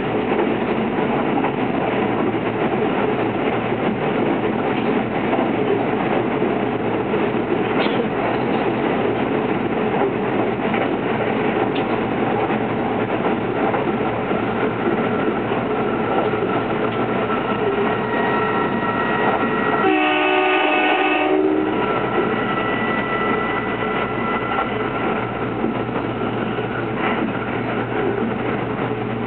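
Running noise inside the cabin of a Kintetsu 22600 series 'Ace' limited-express electric train travelling at speed: a steady rumble of wheels on rail. About two-thirds of the way through, a train horn sounds once for about a second and a half.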